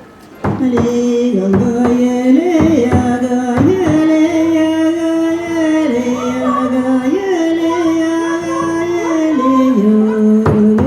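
Sami folk singing: a voice holding long notes and sliding between them, with instrumental accompaniment, starting about half a second in.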